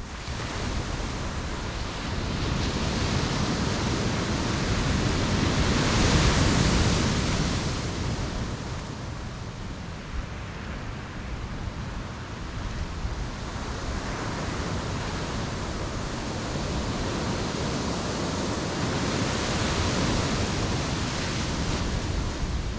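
Pacific surf breaking on the shore in slow surges. One wave swells to a loud crash about six seconds in, and another builds near the end.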